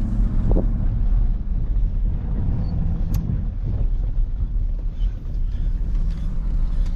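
Motor vehicle engine running steadily, its low hum wavering in the middle, with a sharp click about three seconds in.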